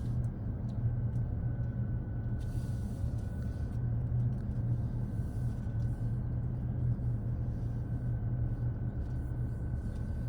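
Steady low rumble of a car's engine and tyres heard inside the cabin as it descends a mountain road in a lower gear, using engine braking to spare the brakes. A faint steady high whine runs underneath.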